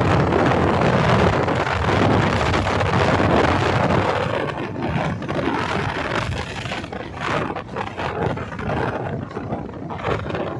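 Loud rushing wind buffeting the microphone, with a deep rumble underneath. It eases somewhat after about four seconds into uneven gusts with a few scrapes or knocks.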